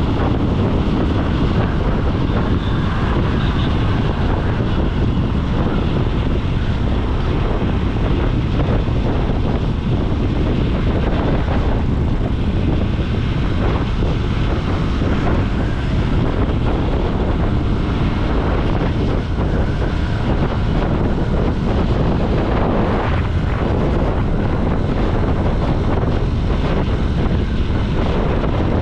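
Wind rushing over the microphone of a moving motorcycle, with the bike's engine and road noise underneath, steady throughout.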